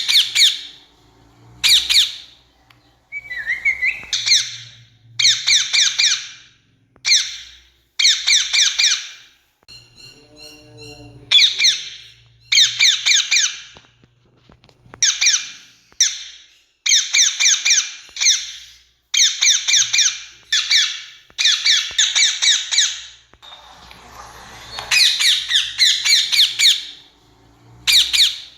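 Rose-ringed parakeet calling: loud, harsh screeching squawks given in quick runs of several notes, in bursts of a second or two with short pauses between.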